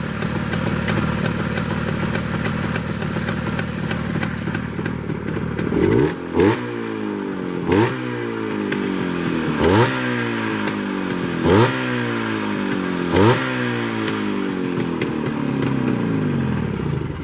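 Freshly rebuilt motorcycle engine running steadily, then its throttle blipped five times, the revs jumping up and sinking back slowly after each. The sound cuts off suddenly at the end.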